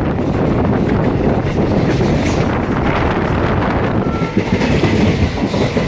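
Passenger train coach running along the track at speed, its wheels and bogies making a steady rumble and rattle on the rails, heard from the open doorway.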